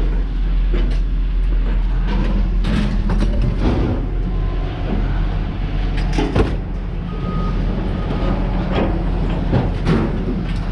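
A heavy engine running steadily at a scrap yard, with scattered clanks and rattles of scrap metal.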